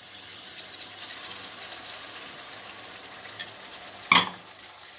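Chopped tomatoes and onions sizzling steadily in hot oil in a steel pan, with a single sharp knock of a wooden spatula against the pan about four seconds in.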